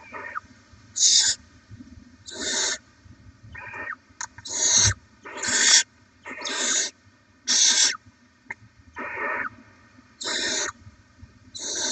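Barn owl chicks begging with harsh rasping hisses ('snoring'), short bursts repeated about once a second, the owlets taking turns, with a few faint clicks between calls.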